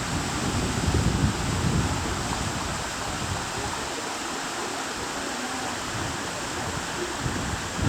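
Steady rush of a waterfall, with low rumbling gusts of wind buffeting the microphone that are strongest in the first couple of seconds and again at the very end.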